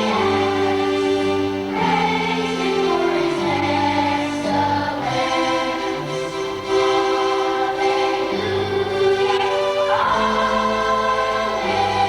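A choir singing a Christian song with musical accompaniment, long held notes moving from chord to chord.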